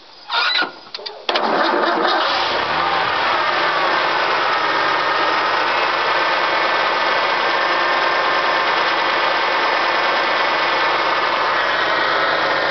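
Ford F-250 engine starting about a second in, after a few brief bursts, then settling into a steady idle through a freshly fitted 2¾-inch Cherry Bomb muffler.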